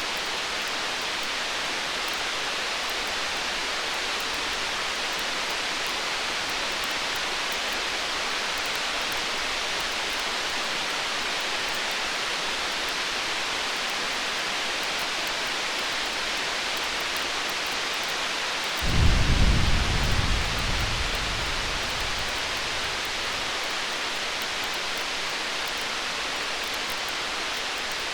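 Distant thunder: a low rumble that starts suddenly about two-thirds of the way in and fades away over about three seconds, over a steady hiss.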